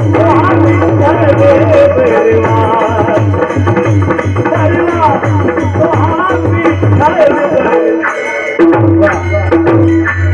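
Devotional song with wavering sung melody over a pakhawaj drum beating a steady rhythm and a held drone note. The drumming breaks off briefly near the end, then resumes.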